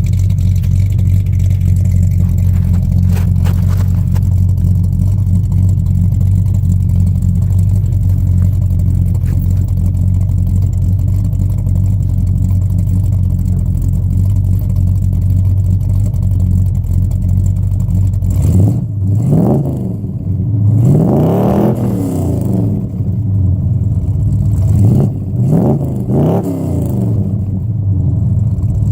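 Exhaust of a 1978 Pontiac Trans Am WS6's built-up 355 V8, running through long-tube headers, 2.5-inch pipes with no H- or X-pipe, and Dynomax Super Turbo mufflers. It idles steadily at first. About two-thirds of the way in comes a short blip, then a free rev up toward 6,000 rpm and back down, and near the end a couple more quick blips.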